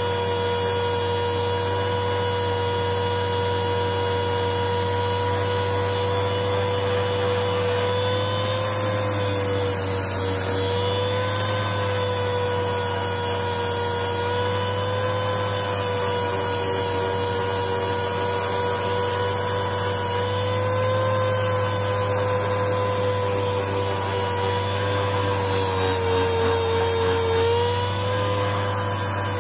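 Dual-action (DA) sander with 80-grit paper sanding a steel axe head, its motor running with a steady whine that wavers slightly in pitch and dips briefly near the end as it is loaded against the metal.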